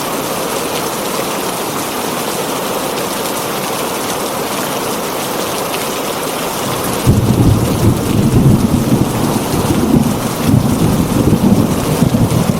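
Heavy rain drumming steadily on a tin roof; about halfway through, thunder breaks in with a loud, rolling low rumble that goes on over the rain to the end.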